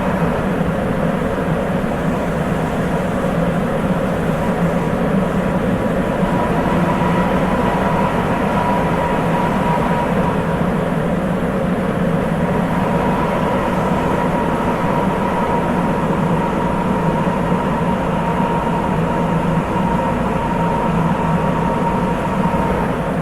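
Sapporo Municipal Subway 8000 series train running at steady speed between stations, heard from inside the car: an even running rumble with a steady high whine throughout.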